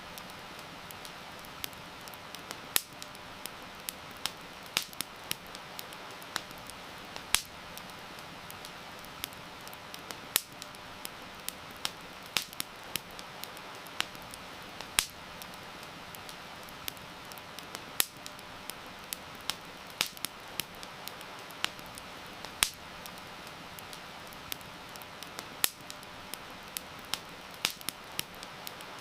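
Wood fire crackling, with sharp, irregular pops and snaps several times a second over a steady hiss of rain.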